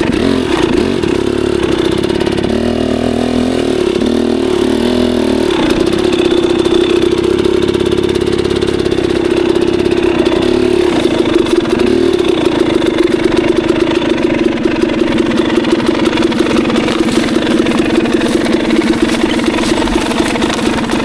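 Dirt bike engine running. Its pitch wavers for the first few seconds, then holds steady.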